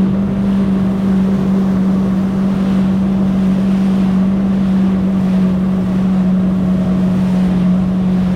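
Jet ski engine running at a steady pitch, with wind rushing over the microphone.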